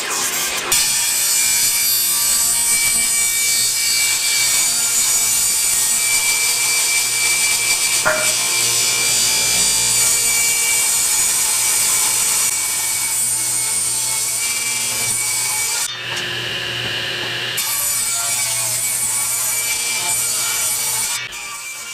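Power saw cutting through lumber: a continuous, steady cut that changes briefly about sixteen seconds in and stops near the end.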